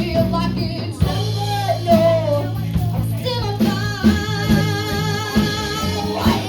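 Live band music: a sung melody over guitar, bass and drums.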